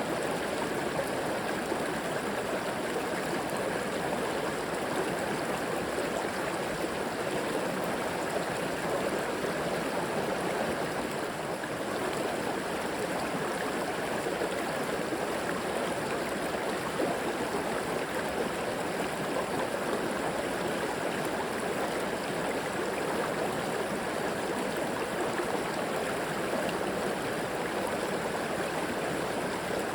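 River water flowing and rushing over stones: a steady, even rush with a light gurgle.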